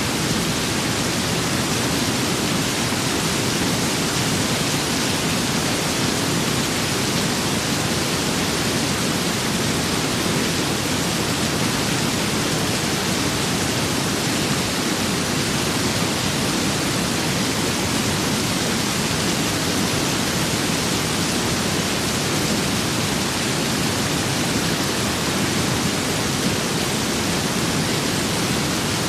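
Steady rain with wind, an even hiss with no single drops, gusts or thunder standing out.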